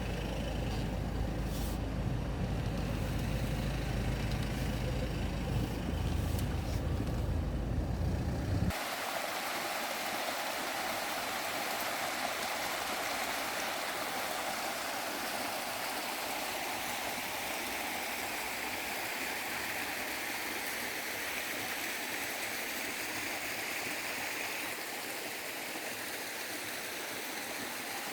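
A low steady rumble for about the first nine seconds, then a sudden cut to a valley stream rushing steadily over rocks.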